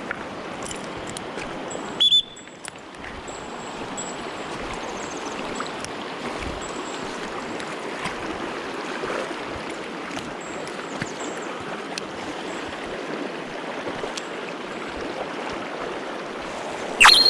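Small mountain stream running steadily. A brief loud burst about two seconds in, and a loud ringing tone starts near the end.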